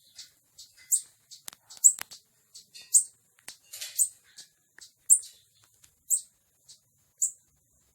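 A small bird giving short, high, sharp chirps, about one a second, with a few faint clicks in between.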